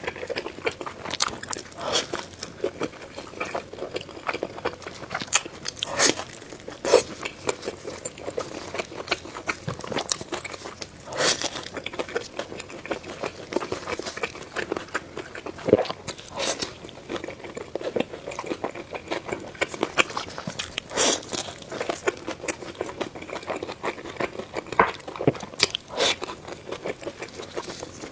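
Close-miked eating sounds: a person biting and chewing fast food, with irregular sharp, crunchy bites.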